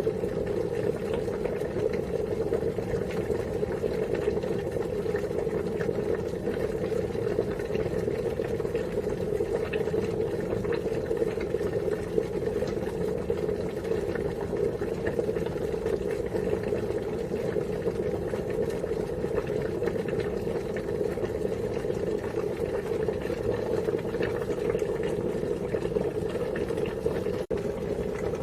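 Water boiling steadily, a continuous dense bubbling with a brief break near the end.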